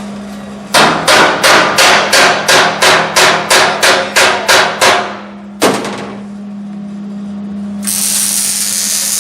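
Hammer blows on sheet metal: a quick run of about a dozen ringing strikes, roughly three a second, then one more strike a moment later. A steady hiss starts near the end.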